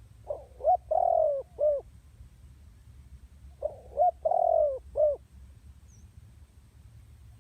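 Female spotted dove cooing: two phrases, each of about four notes and lasting about a second and a half, the second starting about three seconds after the first. It is the kind of female call used to stir up male doves.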